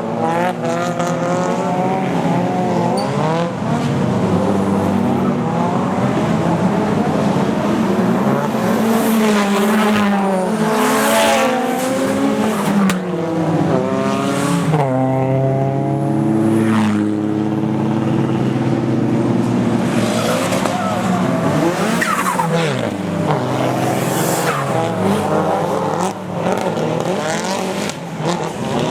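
Drift cars' engines revving hard, their pitch swooping up and down again and again, with more than one engine overlapping at times. Several short bursts of tyre noise cut through, the longest about ten seconds in.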